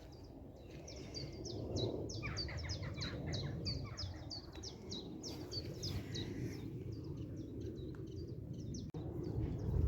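A songbird singing a rapid string of short high notes, each sliding downward, about four or five a second. Lower notes join in for a couple of seconds. A steady low rumble runs underneath.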